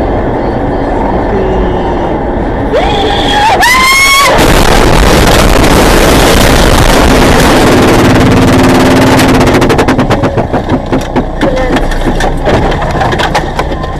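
Vehicle noise: a short rising squeal about three seconds in, then a loud rushing noise lasting several seconds that breaks up into a rapid run of clicks and knocks near the end.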